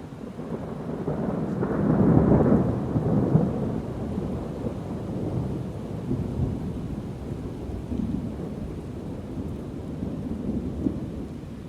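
Thunder rumbling, swelling to its loudest about two seconds in, then rolling on more quietly with a few smaller swells.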